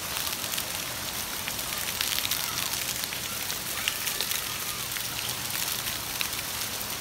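Heavy rain pouring down onto a paved street and lawn: a steady hiss thick with the patter of individual drops.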